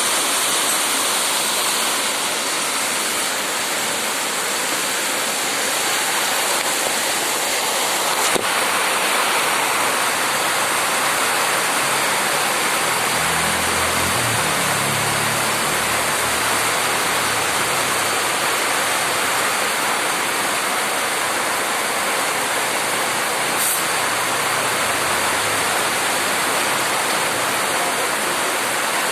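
Heavy rain falling in a steady, loud hiss. A low engine rumble rises and fades about halfway through.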